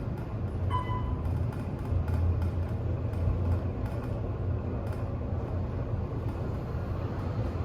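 Steady low rumble of a traction elevator cab in motion, with one short electronic beep about a second in.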